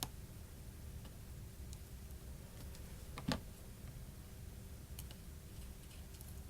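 Light clicks and ticks of small metal tools and tiny parts during smartphone disassembly: a sharp click at the very start, a louder one a little past three seconds in, and a few faint ticks between, over a faint steady hum.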